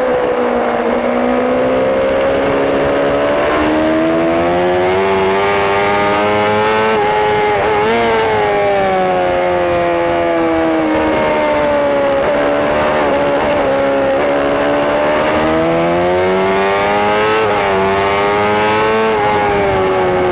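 Racing superbike's engine heard on board at speed, its note climbing and falling as the rider works through the gears, with quick breaks in the note about eight seconds in and again near seventeen seconds.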